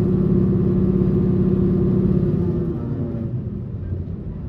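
Electric train running, heard from inside the car: a low rumble of the wheels on the rails under a steady motor hum. About two and a half seconds in, the hum slides down in pitch and fades away, and the rumble grows quieter.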